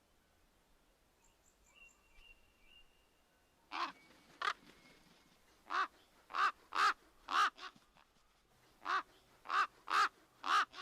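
Raven caws: about ten short, harsh calls, first a pair, then two runs of four. Faint high bird chirps come before them.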